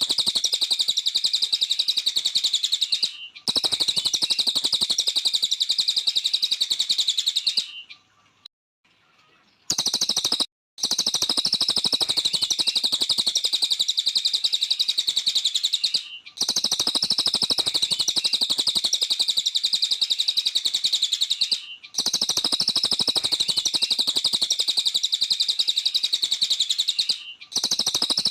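Cililin songbird singing nonstop: a dense, rapid stream of high chirps and trills. The runs last about five seconds each and are broken by short cuts, with one longer pause of about two seconds near the start.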